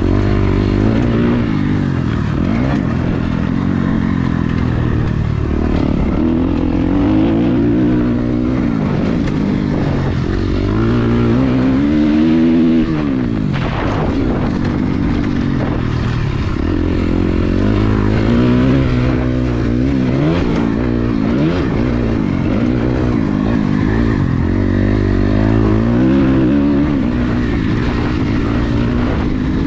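Dirt bike engine being ridden hard, revving up and down over and over as the throttle opens and closes and the gears change, with one long climb and drop in pitch about halfway through.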